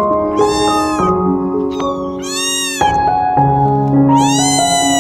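Cat meowing three times, high-pitched arching calls, over gentle background music.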